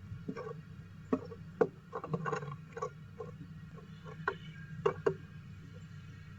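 Irregular taps, knocks and scratches of a female downy woodpecker moving about inside a nest box: about a dozen sharp strokes with a short flurry in between, over a low steady hum.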